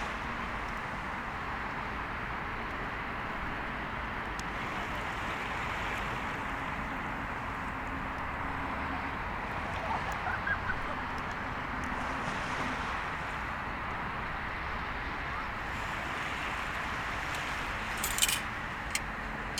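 Bonfire burning over a steady rushing noise, with a few sharp crackling pops near the end. A bird calls briefly a few times about halfway through.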